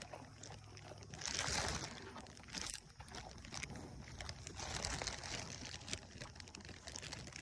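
A plastic bag rustling and crinkling in two faint stretches, about a second in and again around five seconds, as an animal pulls at it.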